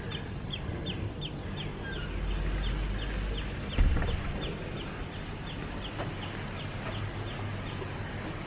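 A bird repeating a short, high, falling chirp about three times a second, over a low outdoor rumble. A single thump sounds about four seconds in.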